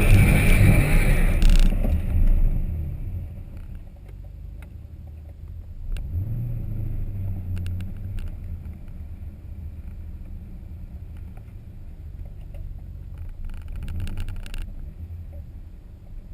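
Twin-turbo Corvette C6 V8 running loudly for the first couple of seconds, then dropping away to a low steady rumble, with a brief swell about six seconds in. A short run of ticking comes near the end.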